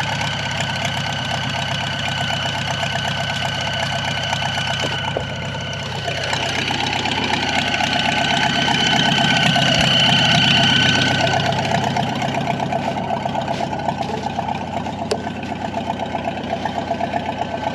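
Crawler tractor engine running steadily while skidding logs, with a steady high whine over it. It grows louder about six seconds in and eases off again after about eleven seconds.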